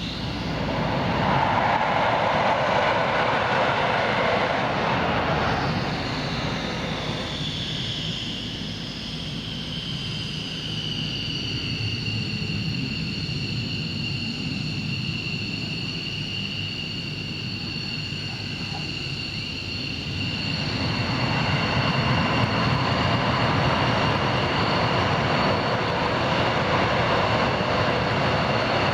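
F-15 fighter's twin turbofan engines running with a high turbine whine over a broad rumble. The whine slides down in pitch about seven seconds in and then holds steady; the rumble is louder for the first few seconds and again through the last third.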